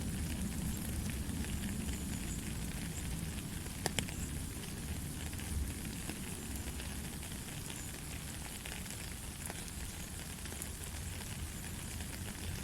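Steady light rain, a constant hiss with scattered drop taps and one sharper tap about four seconds in.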